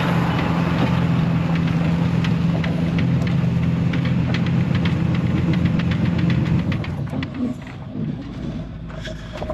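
Dump truck's 7.3-litre engine held at high, steady revs as the driver tries to climb out of a slick, muddy spot, then backing off about seven seconds in when the truck fails to get out.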